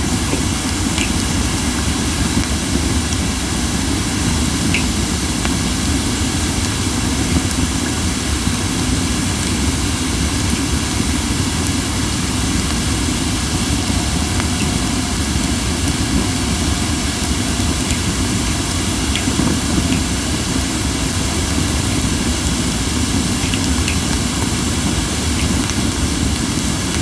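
Crape myrtle wood burning in a campfire, a steady hissing with only a few faint pops. The strong hiss and scarce crackling are the sign of wood still holding moisture, burning like green wood.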